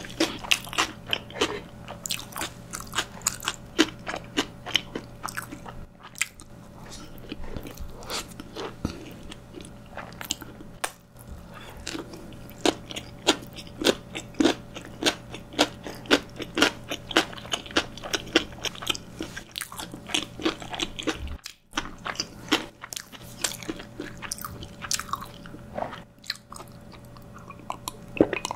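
Close-miked chewing and biting of steamed dumplings: a steady run of short, sharp mouth clicks and crunches, pausing briefly about two-thirds of the way in. A faint steady hum runs underneath.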